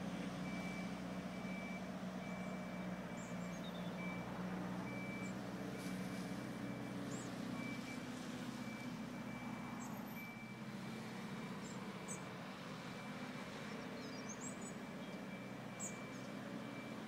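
A heavy vehicle's engine running steadily, with an intermittent high-pitched beeping like a reversing alarm.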